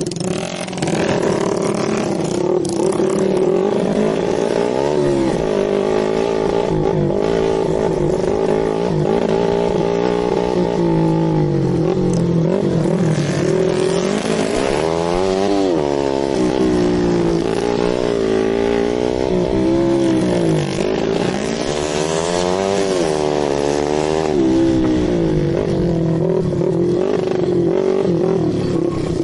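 Dirt bike engine running and being revved, its pitch rising and falling repeatedly through the middle stretch, steadier near the start and end.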